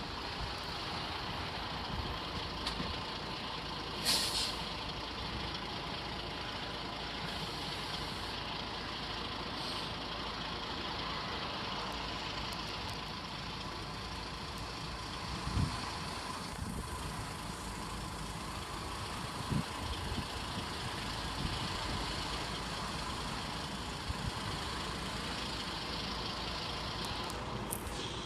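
Heavy road vehicle, a lorry or bus, running at idle, with a short air-brake hiss about four seconds in and a few light knocks later on.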